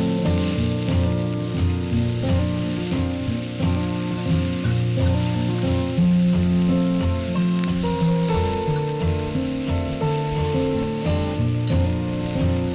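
Food sizzling on a grill over a wood fire, with background music playing.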